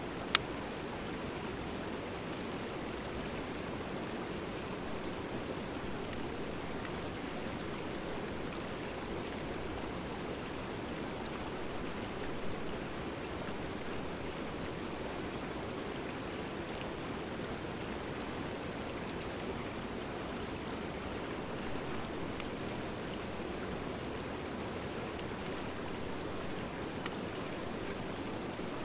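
Wood fire of driftwood and hardwood burning steadily with a constant rushing hiss and scattered small crackles. One sharp pop comes right near the start.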